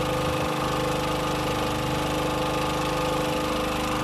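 Boat engine idling steadily, an even mechanical drone with a constant hum.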